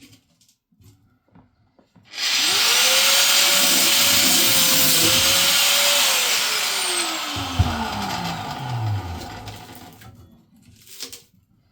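Handheld electric cutting tool spinning up, cutting through the boiler tank's remaining metal for a few seconds with a hissing grind, then released and winding down with a falling whine. Brief clatter near the end.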